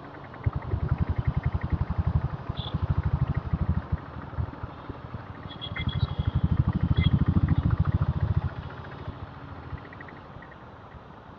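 Diesel Royal Enfield Bullet's single-cylinder engine thumping with a steady rhythmic beat while riding, getting louder twice and quieter in between and near the end. A few short high beeps sound over it midway.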